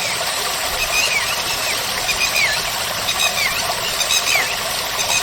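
Birds chirping over a steady rushing noise. The chirps are short, curving calls that come about once a second.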